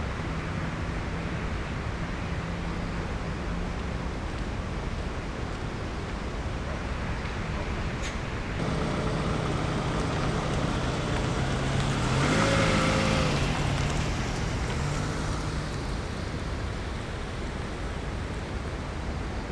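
A vehicle engine hums over a steady rain hiss, swelling louder with a bending pitch about twelve seconds in, then easing off.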